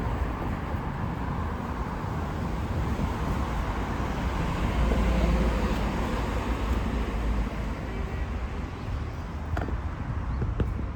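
Road traffic on a city street: car noise with a low rumble that swells about halfway through and then eases off, as a vehicle passes.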